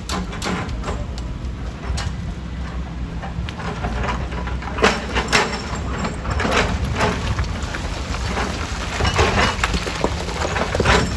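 Stone crusher running with a steady low rumble while rocks crack and knock inside it at irregular moments, in clusters from about halfway through.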